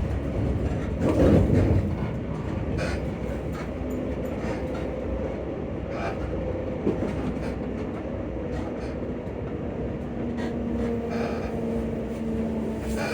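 ScotRail Class 334 electric multiple unit running, heard from inside the carriage: a steady rumble of wheels on the track with scattered clicks from the rails, and a louder bump about a second in. Steady humming tones from the traction motors come in during the middle and hold through the last few seconds.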